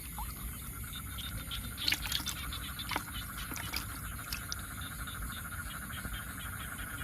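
A frog calling with a steady, fast-pulsing trill, with a few faint clicks and splashes of water about two and three seconds in.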